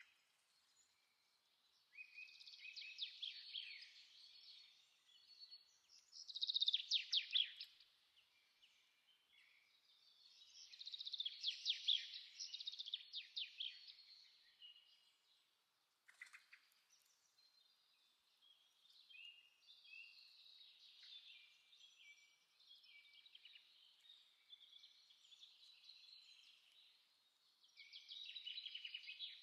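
Small songbirds singing in repeated bursts of high chirps and fast trills. The loudest bursts come about six and twelve seconds in.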